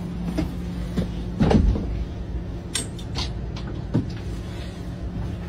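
Vehicle engine idling with a steady low hum, with a few knocks and clunks over it.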